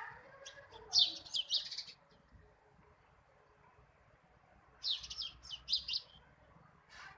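Small birds chirping in two bursts of quick, high chirps, one about a second in and one about five seconds in.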